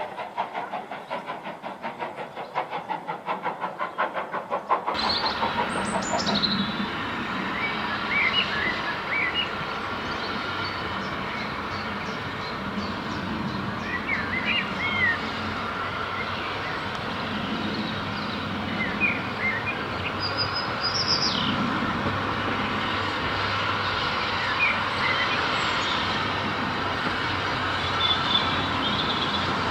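Steam-hauled train passing, with a fast, even run of beats. About five seconds in it cuts to birds singing over a steady low rumble.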